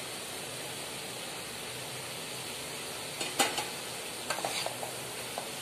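Chapati strips and vegetables sizzling steadily in a metal kadai, with a steel spoon clinking and scraping against the pan a few times from about three seconds in as it stirs.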